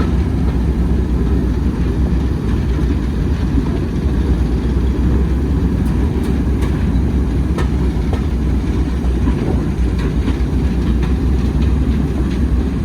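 Railway train running along the track: a steady low rumble, with a few faint clicks partway through.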